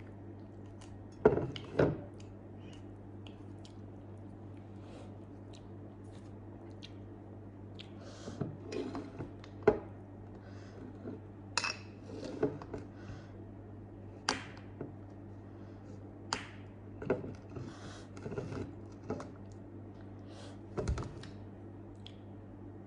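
A person chewing and eating soft grilled eggplant with sambal close to the microphone: wet mouth noises, lip smacks and short clicks come at irregular intervals, with two sharper ones a little after a second in. A steady low hum runs underneath.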